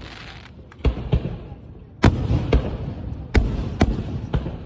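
Fireworks shells bursting: a run of about seven sharp bangs, roughly two a second, each trailing off in a low rumble, with a quieter gap in the first second.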